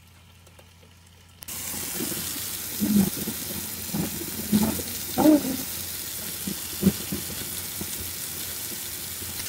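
Steak frying in a pan, a steady sizzle that cuts in suddenly after a quiet first second and a half, with a few short louder sounds over it.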